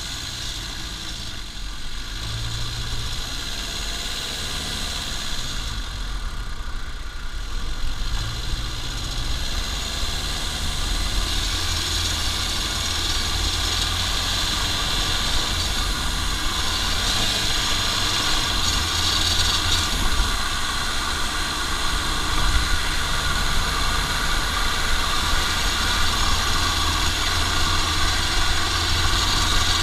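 Toyota Lucida's turbodiesel engine running under way, with tyre and road noise, heard from underneath the car. It grows gradually louder, and a hiss builds from about a third of the way through as the car gathers speed.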